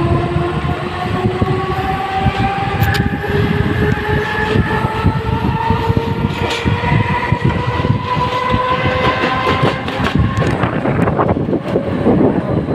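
Electric multiple-unit suburban local train running, with a whine of several tones that rises slowly in pitch over a steady rumble of wheels on track. Near the end the whine fades and a noisier rattling clatter takes over.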